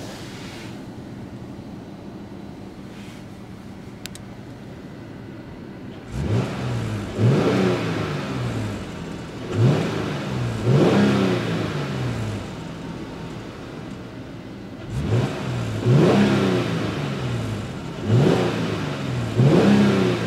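2014 Jeep Cherokee Trailhawk's 3.2-litre Pentastar V6 idling in park, then blipped up and down in quick pairs four times, each rev rising sharply and falling back to idle.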